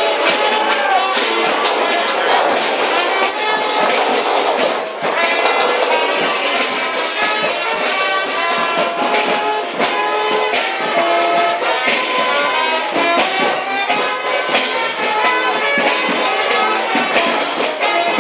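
Marching brass band playing, with sharp percussion hits.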